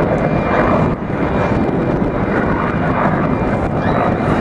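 Display aircraft's engine noise, a steady, loud drone without pauses.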